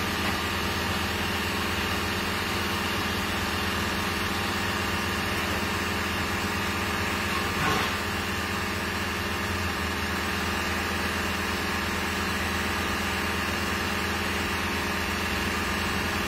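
2013 Fiat Fiorino's 1.3 Multijet diesel engine idling steadily, with a brief swell in loudness about halfway through.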